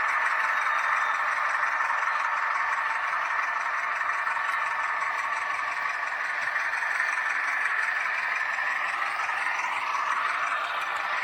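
H0-scale model of a Renfe Alco 313 diesel locomotive running steadily along the layout, a continuous running noise from the model train on the track.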